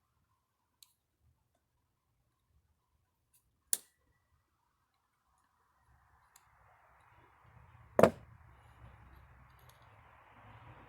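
A few sharp clicks and one louder knock of small metal distributor parts and tools being handled during disassembly. About six seconds in, a steady hiss with a low hum comes in and slowly grows.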